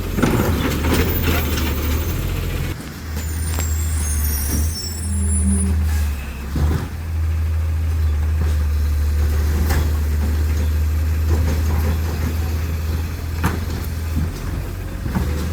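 Autocar ACX New Way Sidewinder side-loader garbage truck running with a steady low engine drone. The drone dips briefly a few times and fades near the end, with scattered sharp knocks and clanks throughout.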